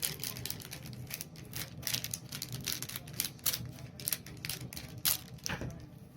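Scissors cutting open a plastic blind bag: a rapid, irregular run of snips and crackles.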